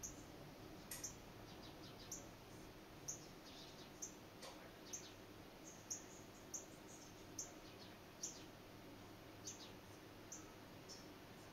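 A bird giving short, high chirps about once a second, a few of them sliding downward, over a quiet background.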